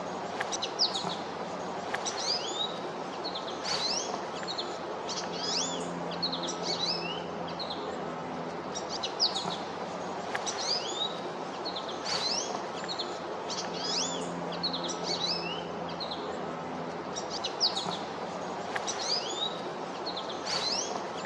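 Small songbirds chirping and calling continuously over a steady background hiss, with a few single sharp knocks a few seconds apart, fitting a pileated woodpecker striking wood.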